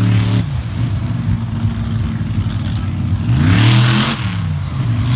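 Monster truck engine revving: held high, it drops off about half a second in, then a quick rev swoops up and back down with a burst of hiss near the four-second mark before it settles into a steady run.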